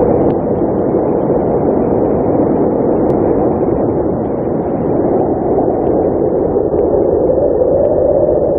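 Blizzard wind blowing steadily, a dense low rushing noise that swells and eases slightly.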